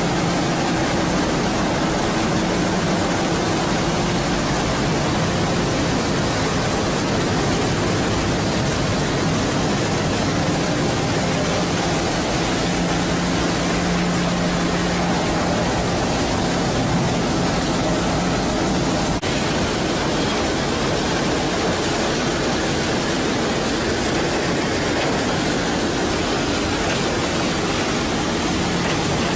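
Steady rushing noise of wind and water at sea, with a low engine drone from a fishing boat underneath. A single brief click about two-thirds of the way through.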